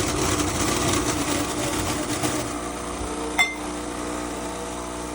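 Espresso machine running with a hissing noise over a steady hum; the hiss cuts off about two and a half seconds in, leaving the hum. A single sharp clink follows about a second later.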